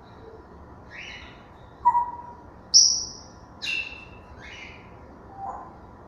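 African grey parrots calling: a string of about six short whistles and harsh calls at different pitches, the loudest a high whistle about three seconds in, over a steady hiss.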